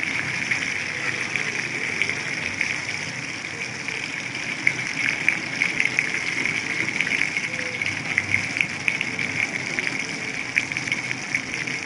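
Chicken lollipops deep-frying in hot oil: a steady sizzle with frequent small crackles and pops.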